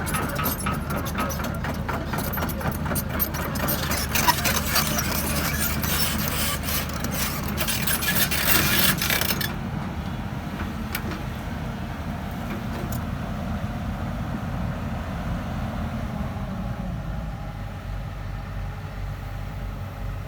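Hydraulic excavator's diesel engine running steadily, with loud metallic clattering and rattling over it that stops suddenly about halfway through, leaving the engine running on its own.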